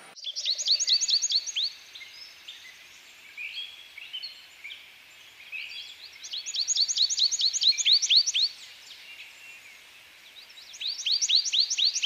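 A bird singing: three bouts of quick, repeated high chirps, each note falling in pitch, about two seconds a bout: one at the start, one after about six seconds, and one near the end.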